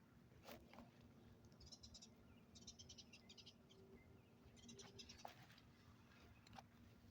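Near silence with faint trains of rapid high chirps, three or four short bursts, and a few soft clicks.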